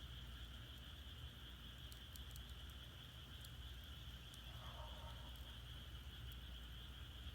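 Firewood burning in a Korean agungi firebox, giving off a few faint sharp crackles, over a steady high-pitched chirring of insects. A brief faint call sounds about five seconds in.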